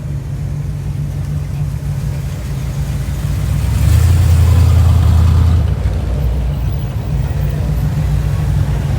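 Car engines running as cars move slowly in traffic. One gets louder for about a second and a half, starting about four seconds in, then fades back.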